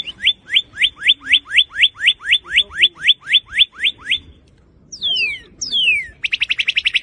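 Northern cardinal singing: a long run of quick rising whistled notes, about four a second, then two falling slurred whistles, then a fast trill near the end.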